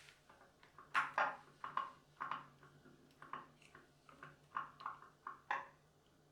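A run of about a dozen light taps and clicks at uneven spacing, like small hard objects being set down and handled, the loudest a little after a second in and again near the end.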